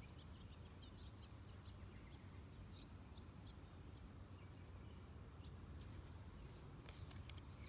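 Near silence with a low steady hum, and faint short bird chirps in the background, mostly in the first few seconds.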